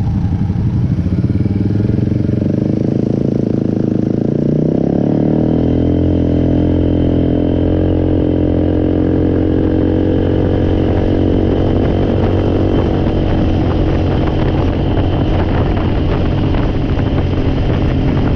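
ATV engine running under way, its pitch rising as it speeds up about four seconds in, then holding a steady cruise, with some rattling over the later part.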